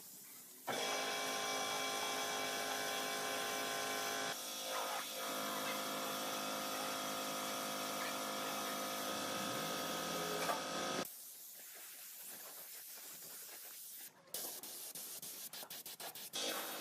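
A power tool runs steadily with a whine of several fixed tones over a hiss, starting abruptly and cutting off after about ten seconds. A quieter hiss follows, then a quick run of clicks near the end.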